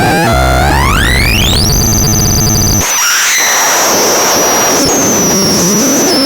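Harsh electronic synthesizer-like noise from the MATRAXON C1. A buzzy pitched tone sweeps steeply upward for about a second and a half, then holds with a fast pulsing for about a second. It cuts out about halfway through, leaving a high steady whine over noise.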